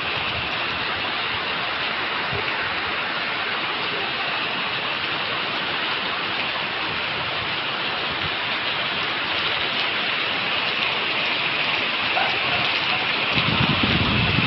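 Heavy rain pouring down in Tropical Storm Pabuk, a steady dense hiss. A low rumble swells near the end.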